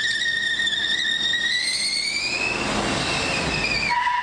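Car tyres squealing in one long, unbroken squeal that rises slightly in pitch midway and eases back down near the end.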